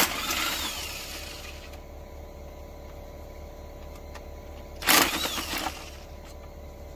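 Two short bursts of a power tool undoing fuel rail fasteners, one at the start and one about five seconds later. Each starts suddenly, rises and falls in pitch, and trails off over a second or so. A steady low hum runs underneath.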